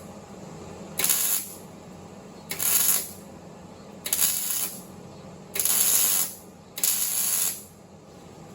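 A metal pipe being cut by hand: about six rasping strokes, evenly spaced about a second and a half apart, each lasting roughly half a second to a second.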